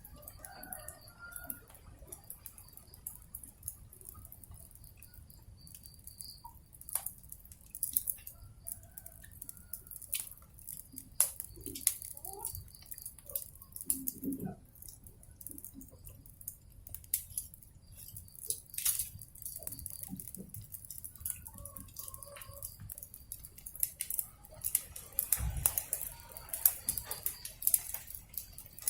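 Wood fire crackling with irregular sharp pops and snaps, a few faint bird calls now and then, and a dull thump near the end.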